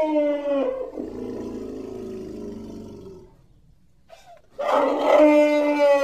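Woolly mammoth sound-effect calls. A blaring, elephant-like call ends about a second in and trails off into a lower rumbling growl. After a short pause, a second, louder, steady-pitched call starts near the end.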